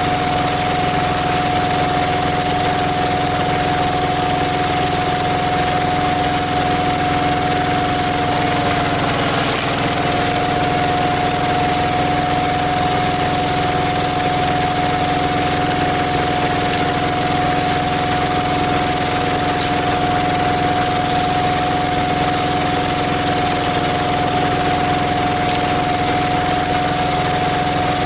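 Walking tractor's single-cylinder diesel engine running steadily, driving a screw-cone log splitter. Its pitch dips briefly about nine seconds in.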